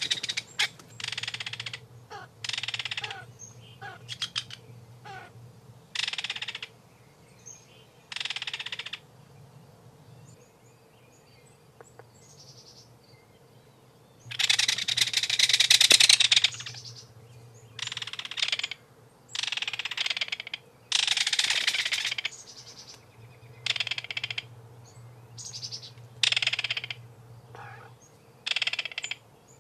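Kingfisher calling in a series of harsh, rattling bursts, each half a second to two seconds long, with the longest and loudest in the middle, over a faint steady low hum.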